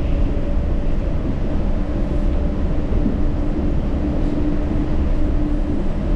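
Yurikamome Line rubber-tyred automated train running along its guideway: a steady low rumble with a faint steady hum over it.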